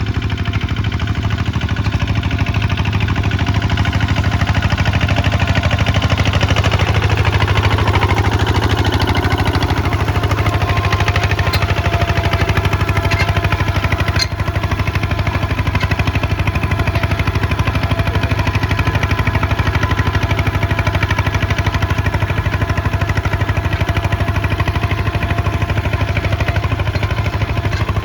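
Kubota ZT155 single-cylinder diesel engine running steadily under plowing load, a fast, even thudding beat.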